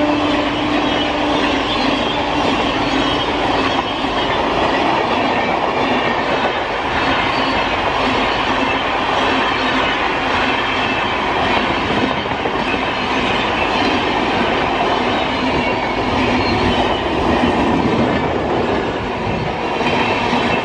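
Coaches of an Indian Railways express train passing close by at high speed: a steady rush of wheel, rail and air noise, with the wheels clattering rhythmically over the rail joints.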